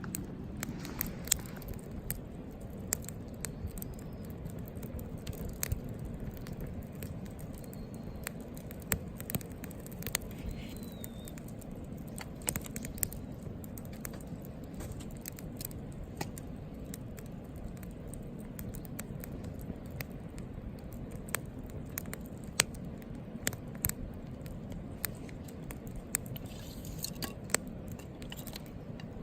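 Wood campfire burning, with frequent irregular sharp crackles and pops over a steady low rustle of the flames.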